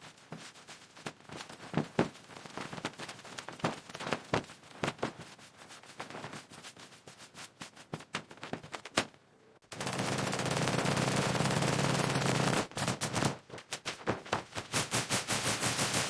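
Demolition and construction work: irregular sharp knocks and bangs like hammering for about nine seconds, then a power tool running steadily for about three seconds, then quick runs of knocks again.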